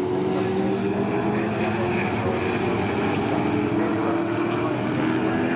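Sports sedan racing cars' engines running hard on the circuit: a steady mix of several engine notes whose pitches slowly rise and fall.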